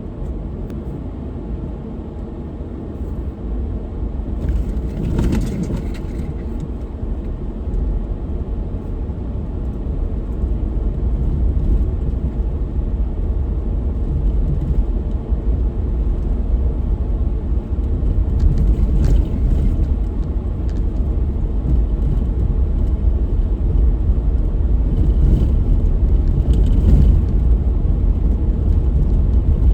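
A car driving along: a steady low road and engine rumble that grows gradually louder, with a few brief hissing swells, one about five seconds in and a couple near the end.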